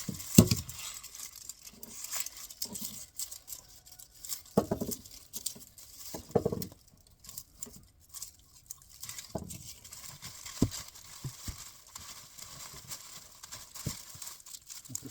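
Papery dried onion skins and stems rustling and crackling as they are handled and cleaned, with a few soft knocks along the way.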